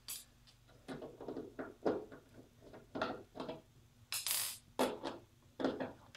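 Phillips screwdriver backing screws out of a plastic pitching-machine housing: irregular clicks and knocks of the driver and screws, with a short scraping rasp about four seconds in.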